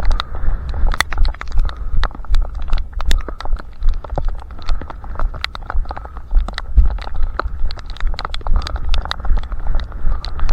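Running footsteps at a steady pace of about three strides a second, with sharp scuffing clicks over a constant low rumble.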